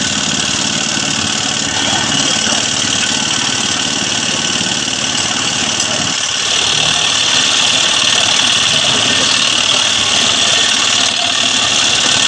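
An engine running steadily under load with a continuous mechanical noise, a little louder from about six and a half seconds in.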